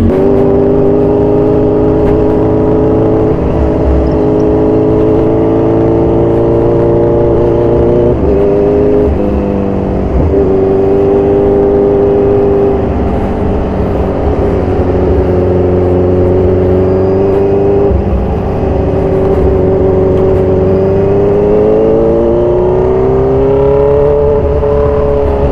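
2014 Kawasaki Z1000 Sugomi's inline-four engine with aftermarket exhaust, running steadily under way. The engine note shifts a little in pitch partway through and climbs near the end.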